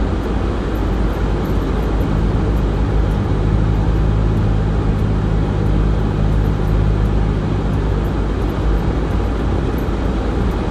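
Car driving, heard from inside the cabin: a steady engine and road rumble, with a low engine drone that grows stronger for several seconds in the middle.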